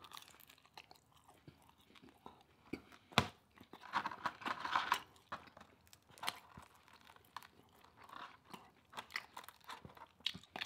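A person chewing food close to the microphone, with irregular crunches and mouth clicks. There is a sharp crunch about three seconds in and a busier stretch of chewing a second later.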